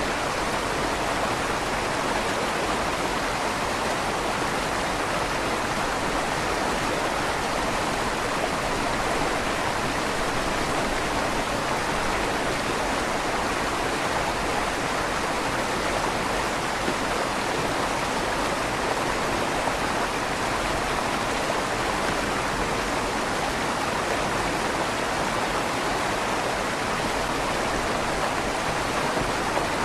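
River water flowing steadily through a stone tunnel under a bridge, a constant rushing with a slight echo off the stone walls.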